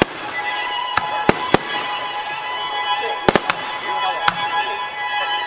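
Aerial fireworks shells bursting at close range, about eight sharp bangs in clusters, over music with held tones.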